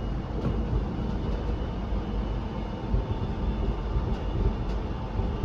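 Steady low rumble of a Melbourne suburban electric train, heard from inside the carriage, with a few faint steady whining tones over it.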